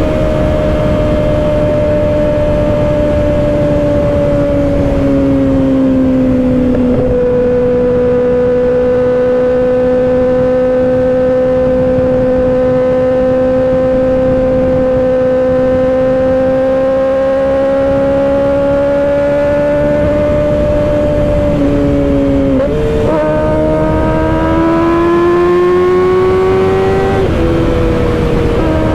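2024 Kawasaki Ninja ZX-6R 636 inline-four engine running under way, with wind noise. The engine note settles lower about seven seconds in and holds steady for a long stretch. Later it changes pitch once, climbs as the revs build, and drops sharply near the end as the rider shifts up.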